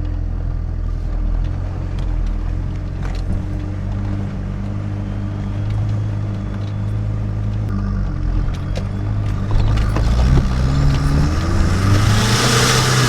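Toyota Hilux 3L four-cylinder diesel with compound turbochargers running while driving off-road, a steady low engine note. About ten seconds in it revs up, climbing in pitch and getting louder, with a rising hiss on top.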